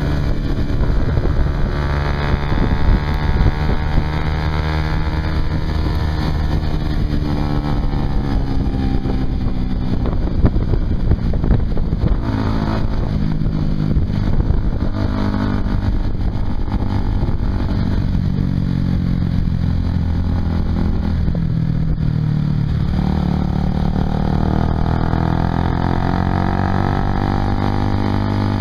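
Honda CBR150R's single-cylinder engine through a Yoshimura aftermarket exhaust, under way with the revs rising and falling several times, over a rush of wind.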